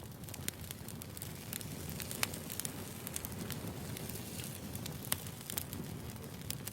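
Wood fire burning, crackling with frequent sharp irregular pops over a steady low rumble.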